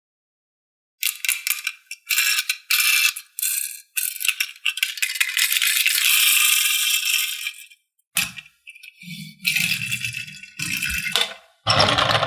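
Toy handling noise: plastic pieces rattling and clattering in quick bursts, starting about a second in. After about eight seconds it breaks into separate clatters with duller knocks.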